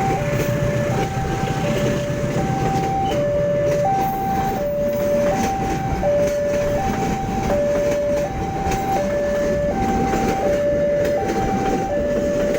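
Railway level-crossing warning alarm sounding a steady alternating high-low two-tone signal, about one high-low pair every second and a half, over the continuous rumble and clatter of a passing train.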